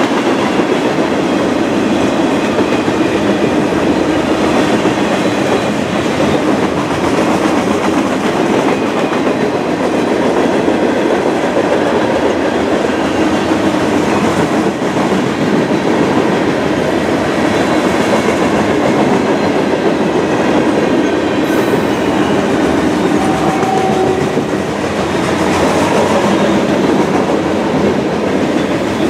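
A mixed freight train of boxcars, tank cars and autoracks rolling past: a steady, loud rumble and rattle of steel wheels on rail. About 24 seconds in there is a brief faint tone.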